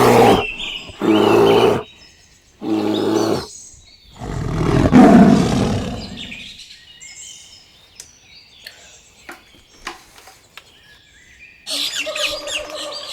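Animal calls: three short loud pitched calls, then a longer rougher call, then quiet with scattered clicks until a burst of chirping starts near the end.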